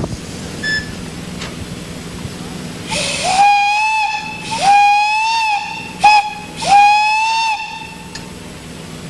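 Steam whistle on a half-size Case steam traction engine, blown in four blasts starting about three seconds in. Each blast opens with a hiss of steam and settles into a single steady note. The third blast is a brief toot; the others last about a second each.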